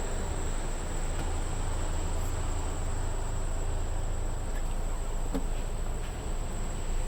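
Mercedes Actros tractor unit's diesel engine idling: a steady low rumble, with a constant high-pitched whine over it.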